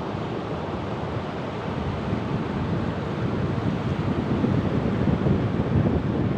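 Ocean waves washing on the shore, a steady deep rush that slowly builds in loudness, with wind buffeting the microphone.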